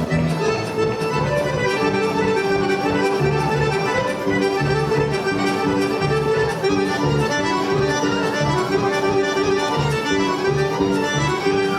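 Serbian traditional folk music led by an accordion, melody notes over a steady, evenly pulsing bass.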